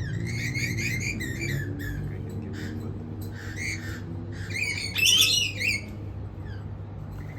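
Lorikeets calling in bunches of harsh, shrill squawks, loudest a little past the middle, over a steady low hum.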